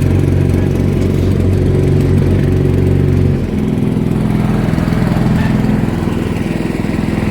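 Motorboat engine running steadily; about three and a half seconds in its note shifts higher.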